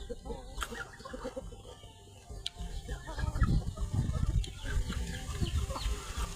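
Chickens clucking in short, repeated calls, over a low rumbling noise that grows louder about halfway through.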